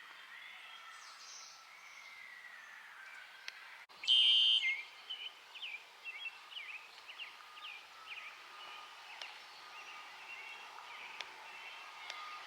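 Outdoor ambience with birds calling in short chirps, the chirps coming thickly through the second half. A brief, louder sound about four seconds in stands out above the rest.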